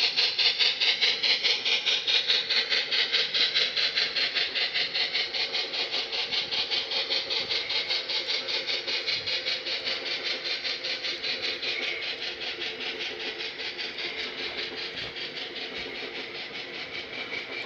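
Model B&O EM-1 Yellowstone steam locomotive's sound system playing a rapid, steady steam-exhaust chuff, about four beats a second, fading gradually as the engine runs away from the microphone.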